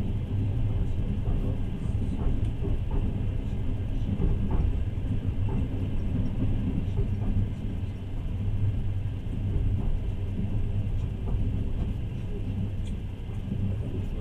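Steady low rumble of a passenger train in motion, heard from inside the carriage: the wheels running on the rails.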